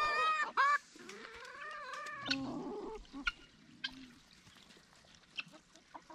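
Farm animal calls: a few loud, high honking calls in the first second, weaker calls running on until about two and a half seconds in, then only scattered small clicks and knocks.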